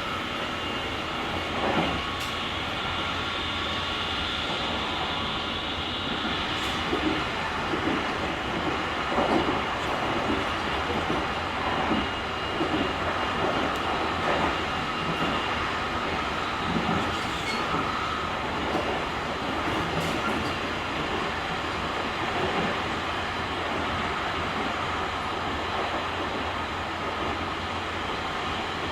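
JR Kyushu 883 series limited express electric train running at speed, heard from the vestibule deck: steady running noise with a faint whine of steady tones. From about seven seconds in, a run of regular thumps is heard as the wheels pass over rail joints.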